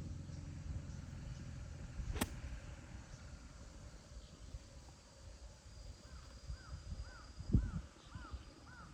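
A single sharp click about two seconds in, typical of a golf club striking the ball, over a low rumble of wind on the microphone. Near the end a bird calls in a quick series of short, arched notes, about three a second.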